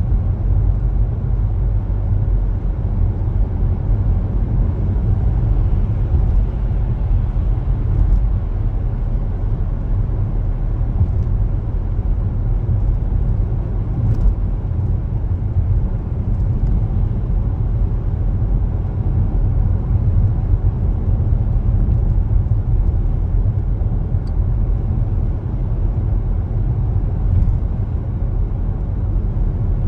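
A car driving along city streets, giving a steady low road and engine rumble with a few faint ticks.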